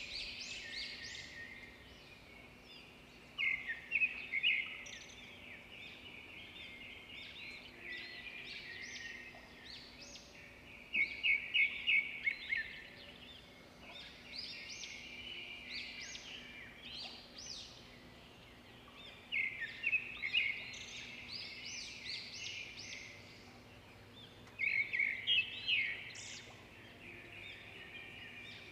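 Birds chirping and twittering, with a louder burst of quick repeated chirps every seven or eight seconds.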